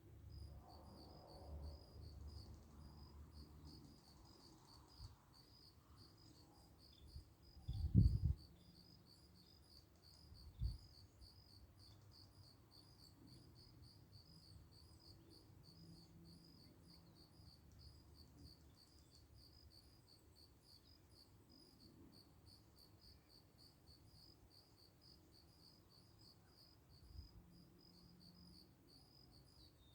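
An insect chirping in a steady, evenly repeating rhythm. Two short low thumps break in, the louder one about eight seconds in.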